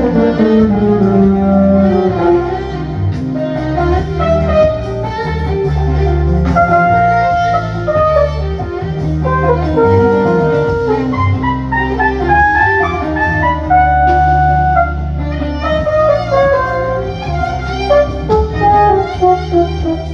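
Instrumental band music: a lead melody with sliding notes played over bass guitar and drums, from a group with violin, bass guitar and drum kit.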